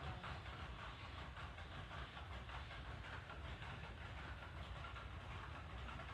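Water pouring steadily onto plant leaves: an even rushing hiss over a low rumble.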